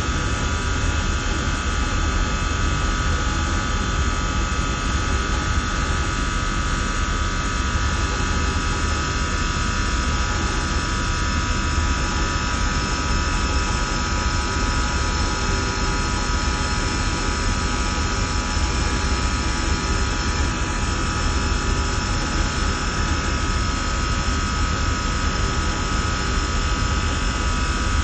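Systemair chiller and fan-coil HVAC equipment running steadily: a constant low rumble with several steady high-pitched tones over it.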